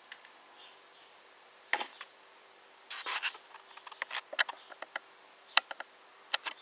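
Small clicks and brief rubbing from a 1:18 scale diecast model car being handled, a dozen or so sharp ticks scattered irregularly from a couple of seconds in, over a faint steady hum.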